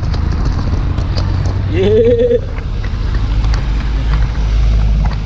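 Steady low rumble of a motorcycle being ridden through wet traffic, engine and road noise together. A man says a brief 'yeah' about two seconds in.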